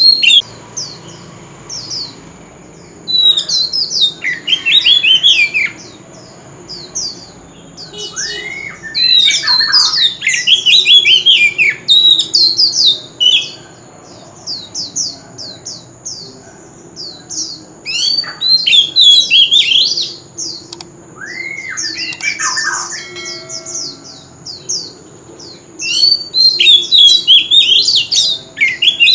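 Oriental magpie-robin singing in bursts of rapid, sliding whistled phrases, with short pauses between them.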